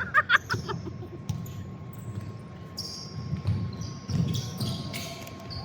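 Basketball bouncing on an indoor court during play: low thuds at uneven intervals, with a few sharp clicks and brief high-pitched squeaks in between.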